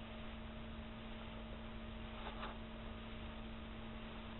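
A steady low hum, one held tone with a fainter higher one above it, over a faint even hiss.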